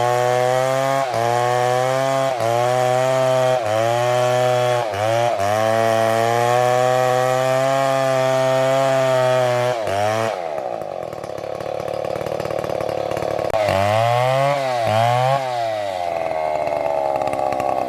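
Two-stroke chainsaw running at high revs, with brief dips in pitch about once a second. About ten seconds in it drops to a lower pitch, as when the chain is loaded in wood, then revs up and down twice near the end.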